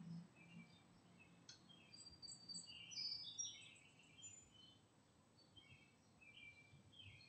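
Faint birdsong: many short chirps and whistles, busiest from about two to four and a half seconds in, with a few more near the end.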